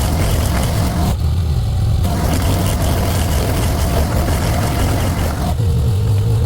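Engine of a small piece of landscaping equipment running loud and steady, with a rough, noisy top that falls away about a second in and again near the end, where the engine settles into a smoother, steadier note.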